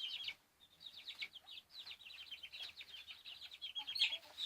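Young Cornish cross meat chicks peeping, a dense run of short high peeps with a brief lull just after the start and one louder call near the end.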